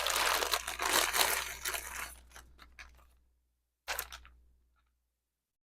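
Packaging crinkling and rustling as jewelry is unwrapped by hand, fading out after about two to three seconds, then a single sharp click and a few faint taps.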